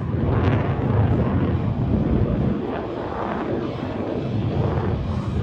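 Eurofighter Typhoon FGR4's twin EJ200 jet engines heard in flight: a loud roar that swells and eases.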